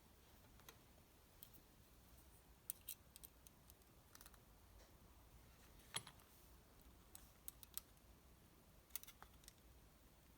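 Sparse light clicks and ticks from small parts and tools being handled at the workbench. The clicks come singly and in short clusters over a near-silent background, the sharpest about six seconds in.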